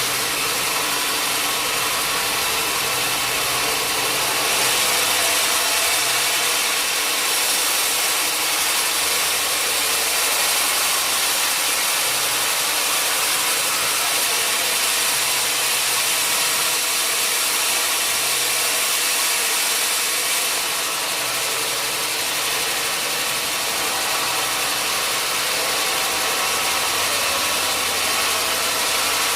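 Sawmill machinery running steadily with a strong high hiss. The hiss grows brighter from about five seconds in until about twenty seconds in.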